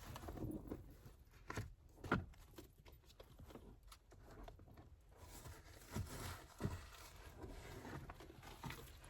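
Faint rustling and a few light knocks as loose items are handled and moved about.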